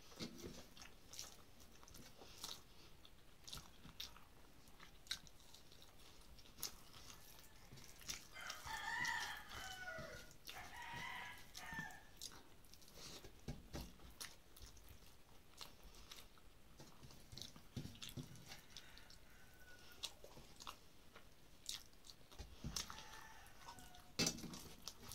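A person chewing food close to the microphone, with many small clicks as fingers mix rice on a metal plate. About eight and a half seconds in, a rooster crows in the background for about three seconds.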